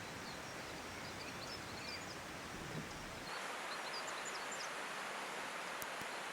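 Steady rushing noise of an outdoor stream, with a few faint high chirps, like small birds, twice over. About three seconds in the sound changes abruptly: the low rumble drops away and the rush becomes brighter.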